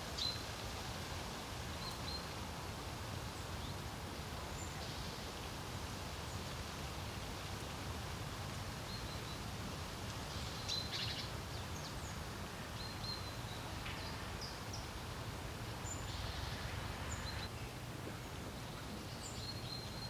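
Steady low wind noise with scattered short, high bird chirps.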